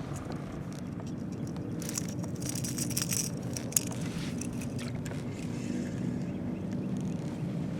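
Steady low drone of a motorboat engine running out on the water. About two seconds in comes a flurry of small rattling clicks, and a single sharp click follows just before four seconds.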